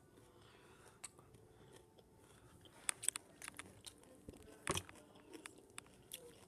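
A person chewing raw carrot and celery with the mouth close to the microphone: faint, irregular crunches, louder in a cluster about three seconds in and again just before five seconds.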